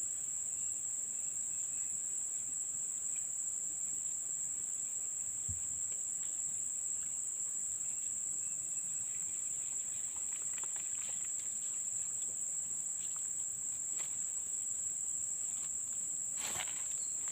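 Steady, high-pitched drone of insects calling without a break, with a few faint ticks and a short rustle near the end.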